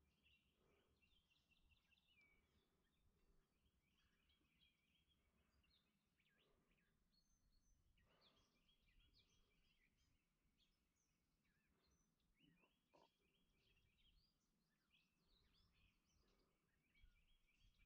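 Faint birdsong: one bird repeats a short trill of quick notes about every four seconds, with scattered chirps from other birds and a soft low rumble underneath.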